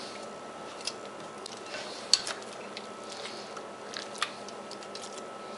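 A few scattered light clinks and taps of kitchen utensils against dishes while a marinade is prepared, the sharpest about two seconds in, over a faint steady hiss.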